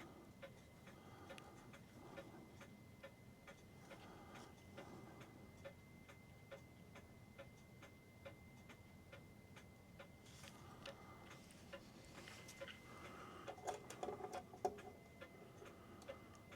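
Movement of a New England Clock Company clock ticking steadily and faintly. Near the end come a few louder, irregular clicks and knocks of handling.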